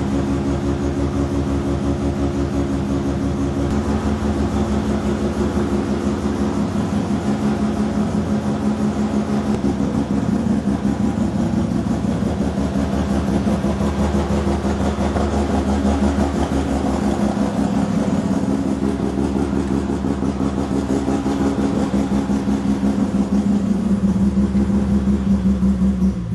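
Mazda RX-7 FB's 12A two-rotor Wankel rotary engine idling steadily through a big stainless-steel exhaust, with the choppy rotary "brap" and its pitch held even throughout.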